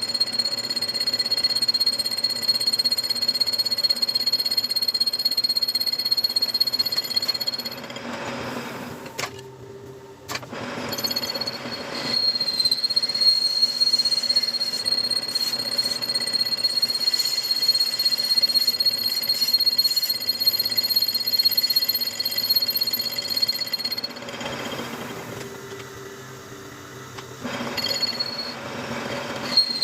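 Metal lathe running and cutting a wheel hub, with a steady high-pitched whine over the machining noise. The whine stops and the noise drops twice, about eight seconds in and again about twenty-four seconds in, before the cut resumes.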